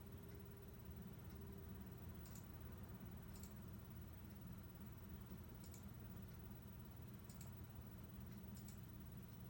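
Near silence: a low steady hum with about five faint, sharp clicks at irregular intervals.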